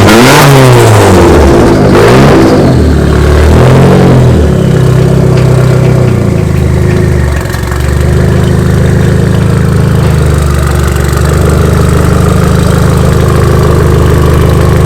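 Turbocharged Mazda Miata engine, freshly started, revved in three quick blips over the first few seconds, then settling into a steady idle.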